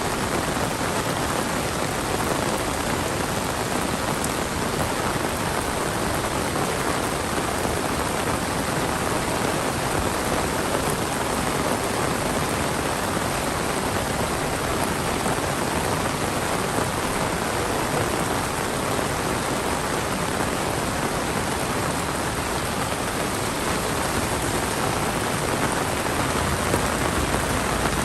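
Heavy monsoon rain pouring down steadily, a dense even hiss of rain on surfaces.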